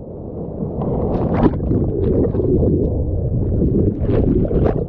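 Ocean whitewater from a breaking wave churning right against the microphone: a loud, heavy rush of turbulent water with splashes about a second in and again near the end.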